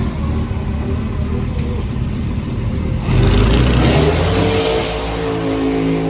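A car engine running. About three seconds in it gets louder with a rush of noise, and the engine note climbs a little and then holds steady.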